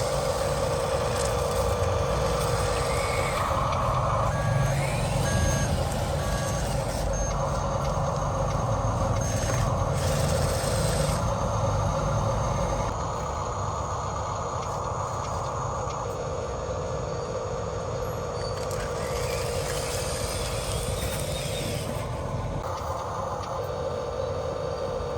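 Radio-controlled construction models, a 1:14 scale Huina excavator and dump truck, running: a steady motor whine with a higher steady tone over it that shifts in pitch now and then. It eases off a little about halfway through.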